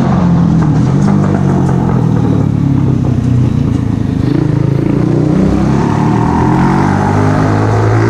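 Mash Café Racer 125's single-cylinder engine running loud through an aftermarket Megaton exhaust; the engine speed falls in the middle and then rises again toward the end.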